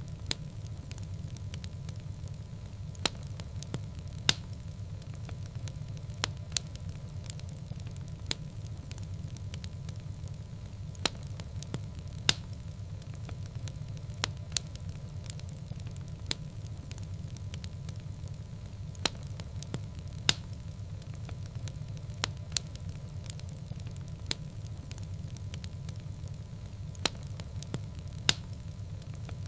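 Wood fire burning in a fireplace: sharp crackles and pops at irregular intervals, roughly one every second or two, over a low steady rumble.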